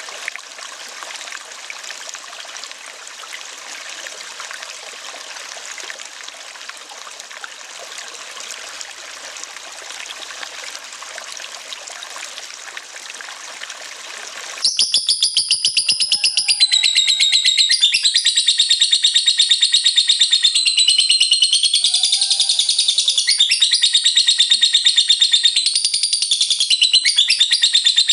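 Running water, a steady stream sound, that cuts off abruptly about halfway through. It gives way to a lovebird's 'ngekek': a loud, long, rapid high-pitched chatter of fast repeated notes that steps up and down in pitch without a break.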